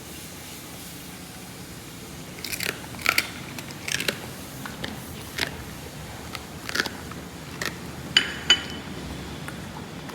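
A Jindo dog eating from a bowl: irregular crunches and clicks of chewing and of the bowl, with two sharper clinks near the end that ring briefly.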